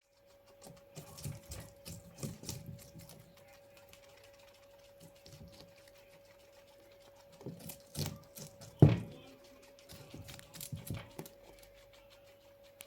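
Guinea pigs eating fast, with bursts of quick crunching and nibbling clicks; the loudest crunch comes about nine seconds in. A steady faint hum runs underneath.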